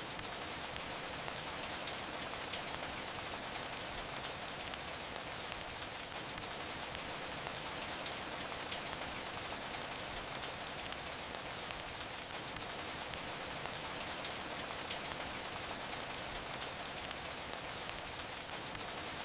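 Steady rain falling, an even hiss, with sharp scattered crackles and pops from a wood fire in a fireplace.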